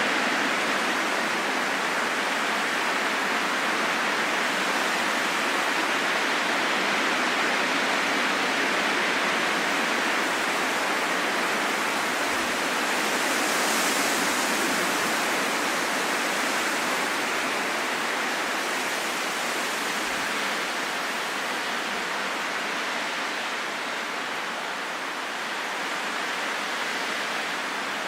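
Steady wind blowing, a smooth rushing noise with no whistle or gusts, swelling gently about halfway through and easing slightly near the end.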